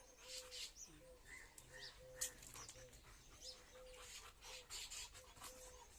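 Faint bird calls: a short, even note repeated about twice a second, with a few higher chirps over it.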